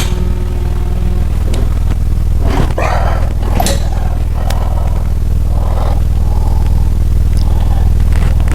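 A steady low hum throughout, with a few short metallic clanks and scrapes of hand-tool work on a Chevrolet 350 small-block V8 as it is turned over by hand during pushrod and rocker setup.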